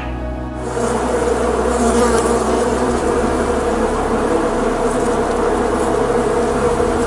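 Many honeybees buzzing together in a dense, steady hum, starting about half a second in.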